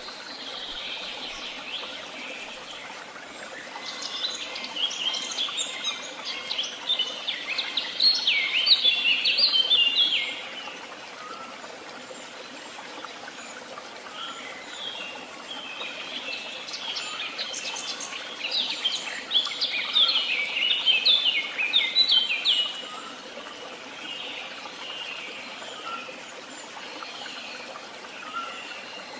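A songbird sings twice, each song a rapid run of high twittering notes lasting about six seconds that stops abruptly. Fainter chirps from other birds fill the gaps, over a steady background hiss.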